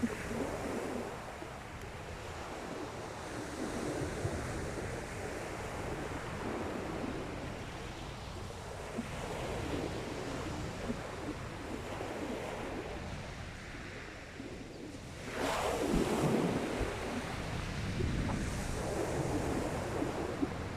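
Sea waves washing in and drawing back on a shingle beach, swelling and easing every few seconds, with one louder wave breaking about fifteen seconds in. Wind buffets the microphone with a low rumble.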